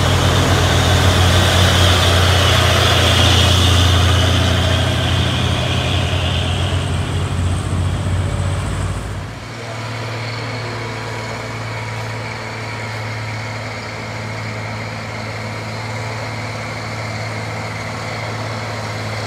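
Heavy truck engine running loud and low under load. About nine seconds in it drops off abruptly, leaving a quieter, steady engine running.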